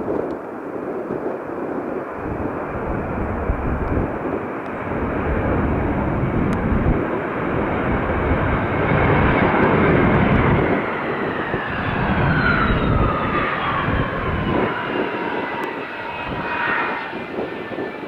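Boeing 717-200 jet airliner with its two Rolls-Royce BR715 turbofans passing on arrival: a rush of jet noise that builds to its loudest about ten seconds in, then engine whines falling in pitch as it goes by.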